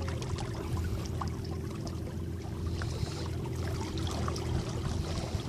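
Small electric motor boat under way: water splashing and trickling along the hull over a steady low hum with a faint constant tone.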